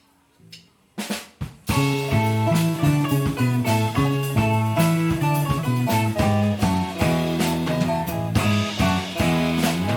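Live band starts a song: a couple of sharp hits about a second in, then the full band comes in together with strummed guitar, viola caipira, electric bass and drum kit.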